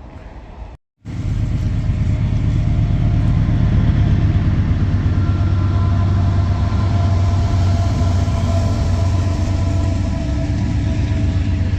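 Freight train rolling along the rails with a loud, steady low rumble that starts abruptly about a second in after a brief silence. Faint steady high squealing tones ride over it through the middle.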